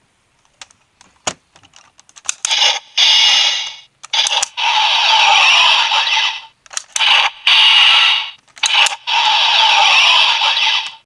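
VS Changer sentai toy: a few light plastic clicks from its parts being handled, then its small speaker blares a series of tinny electronic sound effects in bursts, the longest lasting about two seconds each.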